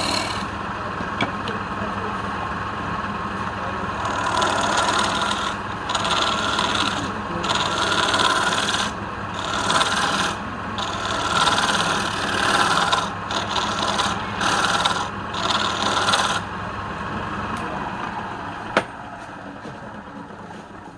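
Wood being rasped or scraped by a hand tool in a run of repeated passes over a steady motor hum, as on a running wood lathe. There is a single sharp click near the end, and the rasping dies down toward the end.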